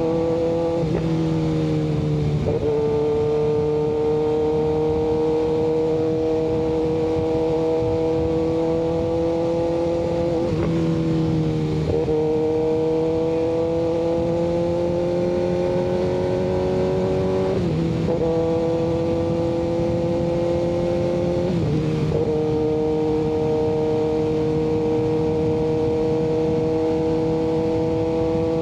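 Kawasaki ZX-6R 636 inline-four through an M4 aftermarket exhaust, running under way at a steady, moderate pitch. The engine note climbs slowly and drops sharply about six times, with road and wind noise underneath.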